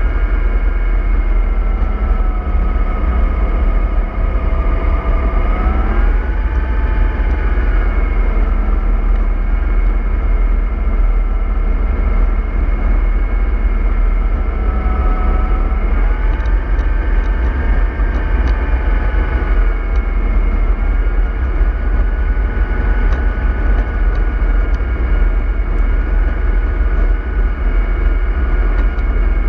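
MAN 24.310 bus engine and driveline running steadily under way: a constant low rumble with a whining tone that rises in pitch about six seconds in and again about sixteen seconds in.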